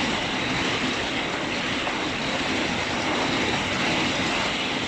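Heavy rain pouring down in an even, steady hiss.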